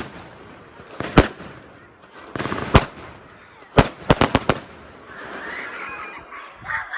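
Celtic 'Oceanic' firework shells bursting with sharp bangs, single reports about a second apart and then a quick run of four, followed by a softer noisy stretch.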